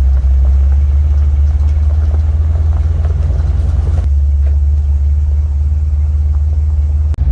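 Steady low rumble of a first-generation Dodge Ram pickup's engine and road noise heard from inside the cab while driving. It dips out briefly near the end.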